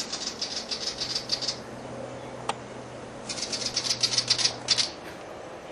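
A bird's rapid, dry rattling call in two bursts of about a second and a half each, with a single sharp click between them.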